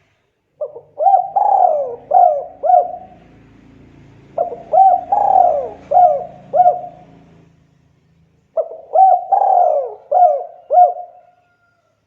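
Spotted dove (tekukur) cooing: three phrases of about four or five quick coos each, with short pauses between them.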